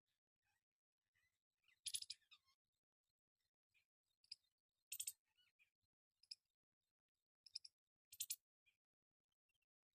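A parrot making short, sharp clicks, about half a dozen scattered through otherwise near silence, the loudest about two, five and eight seconds in.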